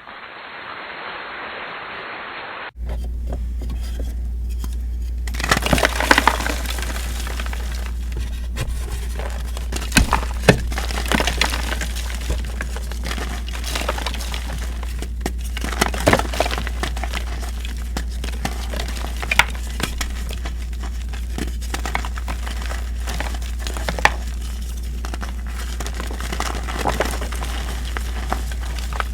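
Reformed gym chalk being crushed and crumbled by hand: crunchy, gritty crackling with sharper snaps now and then, over a steady low hum.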